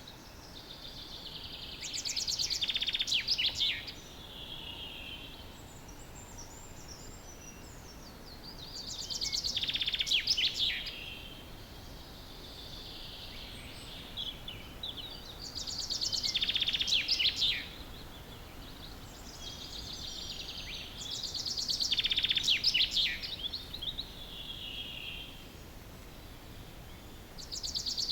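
Common chaffinch singing, repeating its roughly two-second song phrase about every six seconds. Other small birds twitter faintly between the phrases.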